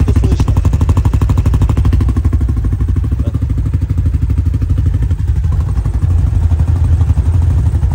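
CFMoto CForce 600 ATV's single-cylinder engine idling through a straight-through exhaust flute, a loud, steady, rapid exhaust pulsing with a deep bass.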